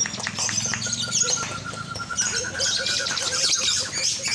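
Lovebirds chattering in a rapid, high-pitched twittering trill. A steadier pulsed call at a lower pitch runs from about one to three seconds in.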